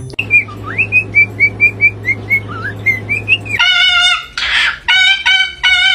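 A pet parrot chirping: a quick run of short, high, repeated chirps, then louder, fuller calls with a short rasping squawk among them about halfway through.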